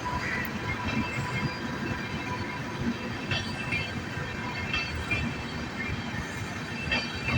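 Passenger express train running into a station platform: a steady rumble of coaches and wheels on the rails, with a few brief high metallic wheel squeals.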